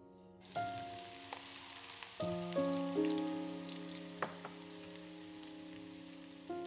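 Food frying in hot oil in a pan, a steady sizzle that starts suddenly about half a second in, with a couple of light clicks. Background music plays over it.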